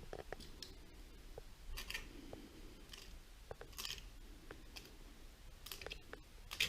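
Faint scraping strokes about every two seconds, the last one the loudest, with small clicks and taps between them.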